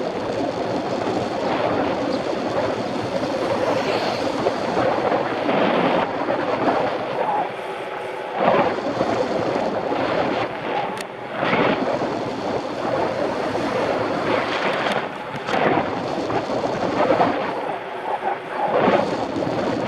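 Wind rushing over the microphone of a bike-mounted action camera while riding, with brief louder surges every few seconds.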